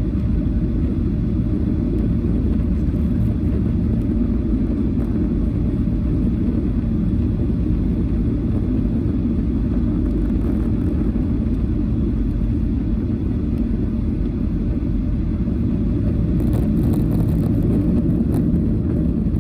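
Steady low rumble of engine and airflow noise inside a Boeing 737-800's cabin on approach, with faint rattling near the end.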